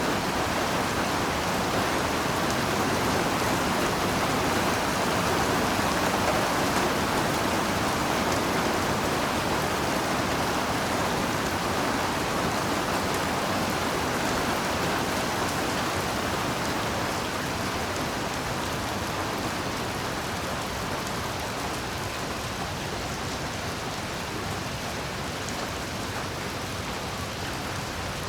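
Heavy, steady rain falling, an even dense hiss that eases a little in the second half.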